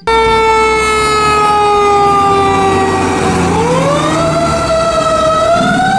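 Fire truck siren wailing on an aerial ladder truck: one long tone that slowly falls in pitch for about three and a half seconds, then climbs again.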